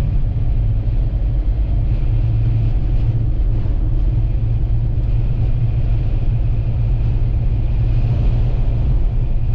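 Vehicle driving on the highway: a steady low rumble of engine and road noise that does not change.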